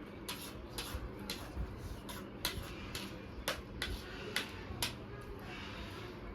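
Eating sounds: a run of sharp, irregular crunches and clicks, about one or two a second, as crisp food is chewed or a utensil knocks the dish close to the microphone.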